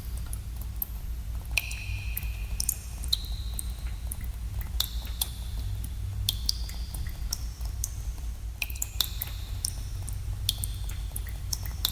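Water drops falling in a cave, landing irregularly a few times a second. Each drop makes a sharp plink with a brief ringing tone of varying pitch, over a steady low rumble.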